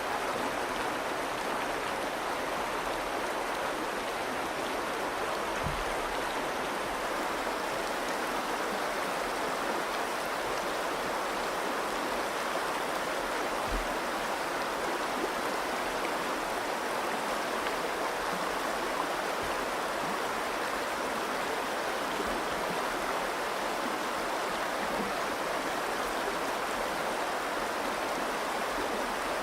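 Virgin River flowing: a steady rush of moving water.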